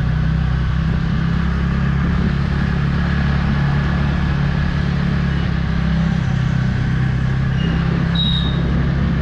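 Motorcycle running steadily at cruising speed with a continuous low engine drone and wind noise on the microphone.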